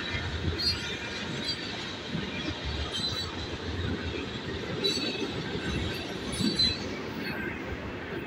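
Freight train of open-top hopper cars rolling past: a steady rumble of wheels on rail, with clacks at the rail joints and short high wheel squeals now and then.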